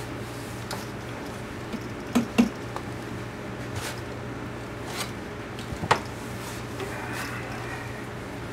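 A few sharp knocks and clicks, the loudest two close together about two seconds in and another near six seconds, over a steady low hum.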